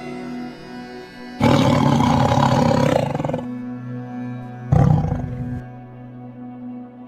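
A big cat roaring twice, a long roar of about two seconds followed a little later by a shorter one, over soft background music.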